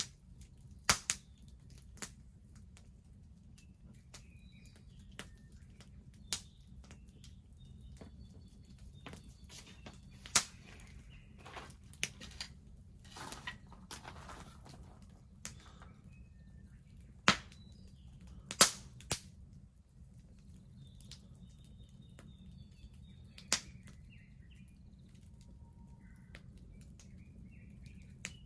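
Wood bonfire crackling, with irregular sharp pops and snaps scattered throughout and a soft hiss from the fire for a couple of seconds midway. Faint bird chirps sound in the background.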